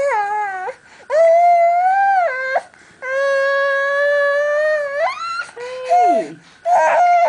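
Baby making long, high, held vocal sounds through a dummy (pacifier): several sustained notes, the longest held on one pitch for about two seconds, then one sliding down in pitch near the end and a few short ones.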